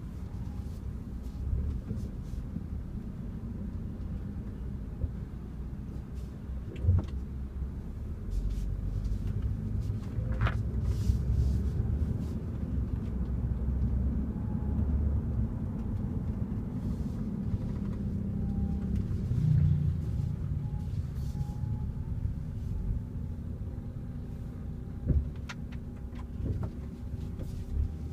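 BMW car running with a steady low rumble, with a few short sharp knocks scattered through it.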